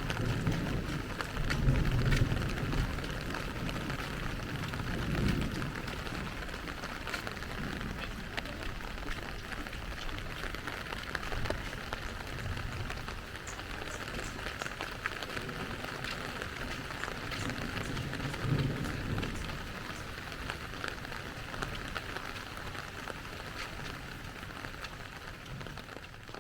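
Steady rain falling, with many small drop hits over an even hiss, and a few low rumbles swelling and fading in the background.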